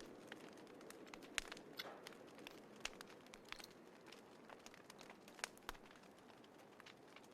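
Small wood fire crackling quietly: irregular sharp snaps and pops, a few louder than the rest, over a soft steady hush.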